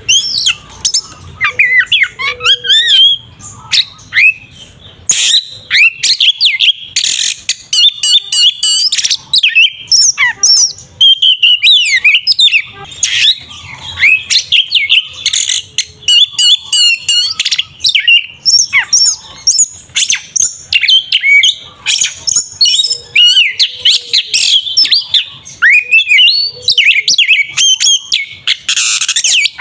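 Oriental magpie-robin (kacer) singing a loud, fast, varied song of rising and falling whistles and short sharp notes, with only brief gaps. It is the aggressive 'fighting' song that is played to provoke other magpie-robins.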